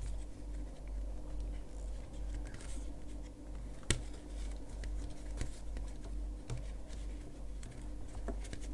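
Light scratching and small irregular clicks of a crochet hook drawing yarn through the drilled holes of a wooden stand, with one sharp tap about four seconds in, over a steady low hum.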